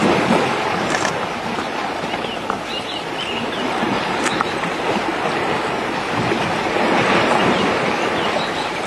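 Steady rushing noise, with a few faint high chirps about three seconds in.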